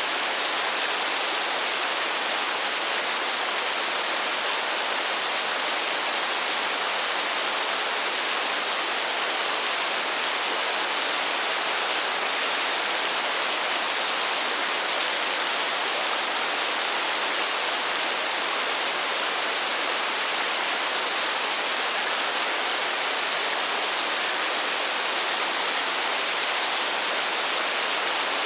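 Steady rain: an even, unbroken hiss with no single drops standing out and no change in strength.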